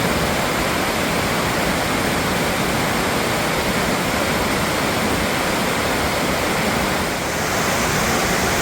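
Loud, steady rush of a waterfall, with a slight dip about seven seconds in.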